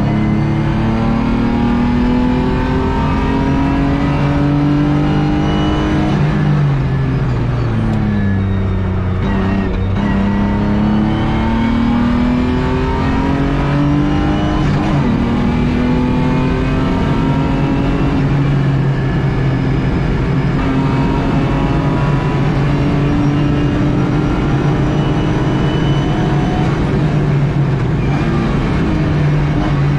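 BMW E36 race car's engine heard from inside its stripped, caged cabin, pulling hard under acceleration. Its pitch climbs through the revs and drops back a few times at gear changes and lifts, over steady road and wind noise.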